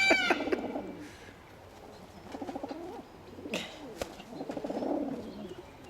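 Pigeons cooing in low, pulsing calls several times, with a short arched call at the start and two sharp clicks a little past halfway.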